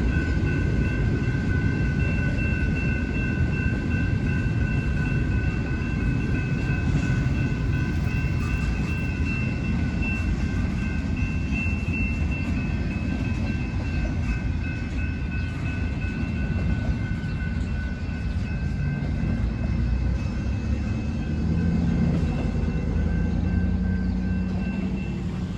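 BNSF intermodal freight train rolling past, a steady low rumble of the cars on the rails with a steady high-pitched whine held over it.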